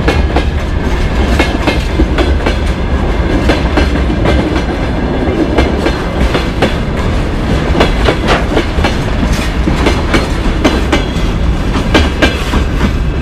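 Freight wagons (open-top gondolas and a container flatcar) rolling past close by: a steady low rumble with a constant run of sharp clicks as the wheels pass over rail joints, a clickety-clack.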